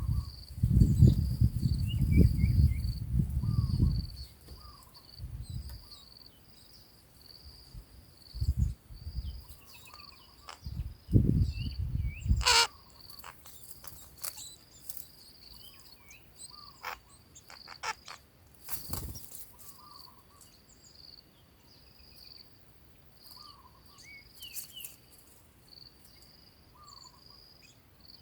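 An insect trills steadily at a high pitch in quick even pulses, with scattered faint short chirps over it. A low rumbling noise fills the first four seconds and returns around the middle, and two sharp clicks stand out.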